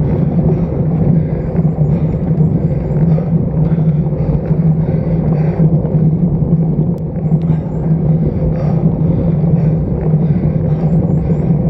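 Steady rush of wind and tyre noise on a road bike's stem-mounted action camera while riding, with a constant low hum and no break.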